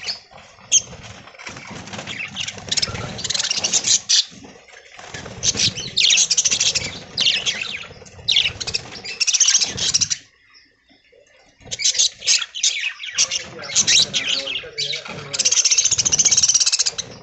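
Budgerigars chattering and chirping, a dense run of quick high calls, with a brief lull about two thirds of the way through.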